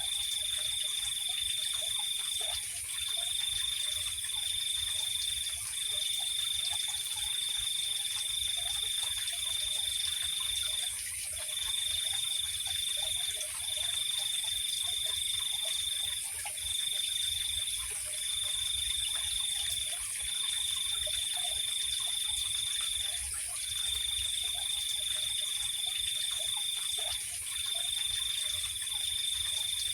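Night insect chorus: one high, even trill that stops for brief pauses every few seconds, over a steady, higher-pitched hiss of more insects.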